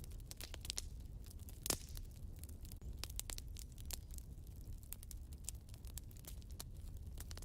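Wood fire crackling in a fireplace: a steady run of small irregular pops, with one louder pop a little under two seconds in, over a low steady rumble.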